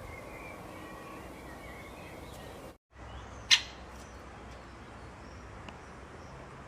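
Faint bird chirps over background noise, then after a short break one brief, loud, high-pitched animal call.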